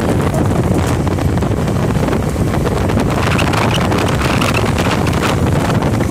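Wind buffeting the microphone of a moving motorbike: a steady, loud rushing rumble with the ride's engine and road noise mixed in.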